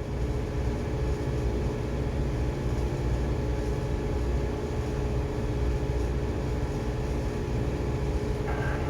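Steady low machinery hum of a ship, with a few steady tones over a deep rumble and no change in level.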